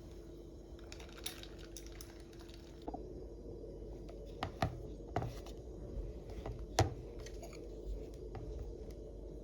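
Scattered, irregular light clicks and taps of small objects being handled, the sharpest one a little before the seven-second mark, over a steady low hum.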